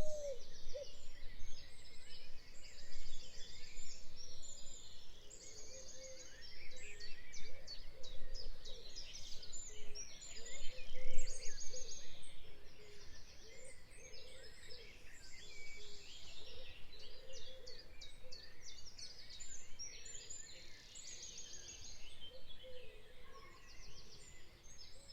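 Many small birds chirping and trilling continuously, with lower warbling calls beneath them.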